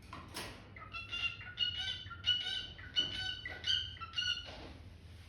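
Cockatiel calling: a quick run of about ten short, squawky chirps on much the same pitch.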